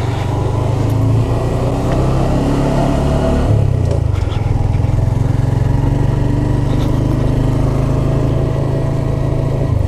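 2017 Honda Grom's 125 cc single-cylinder four-stroke engine running as the bike rides along. Its pitch rises over the first few seconds, changes briefly about three and a half seconds in, then holds steady.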